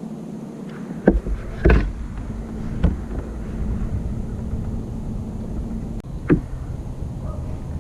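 A few sharp knocks against a plastic kayak hull, one of them doubled, over a steady low hum and rush of wind and water.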